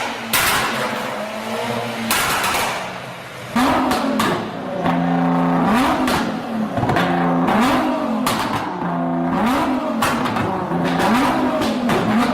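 A car engine revved over and over, its pitch climbing and dropping about once a second, after a run of sharp cracks in the first few seconds.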